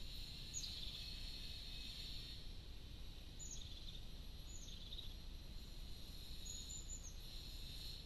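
Faint garden ambience: a handful of short, high chirps from small birds over a steady high hiss and low background rumble.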